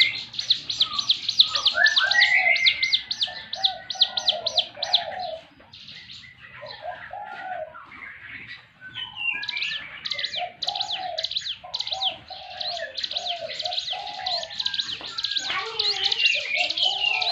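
A ciblek gunung, a prinia, sings its rapid-fire 'tembakan' song: long runs of sharp high notes, many to the second. The runs thin out and go quieter a little before the middle, then pick up again.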